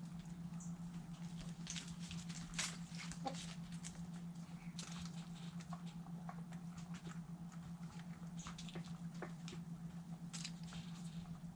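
Chickens pecking at food scraps: a run of irregular quick taps and clicks, over a steady low hum.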